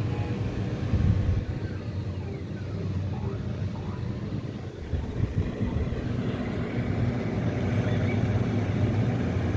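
LG 14000 BTU dual inverter portable air conditioner running: a steady low hum with a rumbling undertone.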